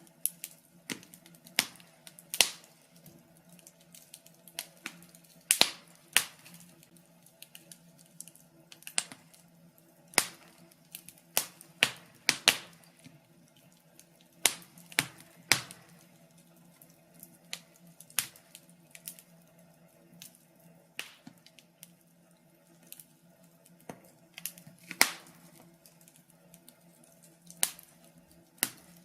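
Wood fire crackling, with sharp irregular pops and snaps, some much louder than others, over a faint steady low hum.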